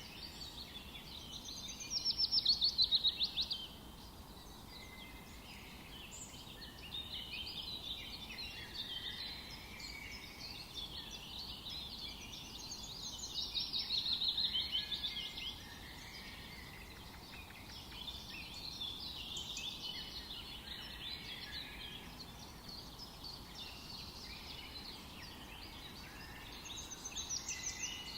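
Several forest birds singing together, with steady twittering and chirping throughout. A loud, rapid trill that falls in pitch stands out about two seconds in, again around fourteen seconds, and starts once more near the end.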